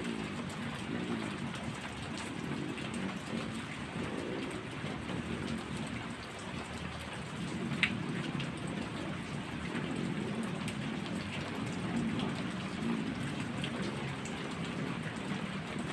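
Heavy rain falling steadily, full of small drop ticks, under a low rolling rumble of thunder. One sharper tap stands out about eight seconds in.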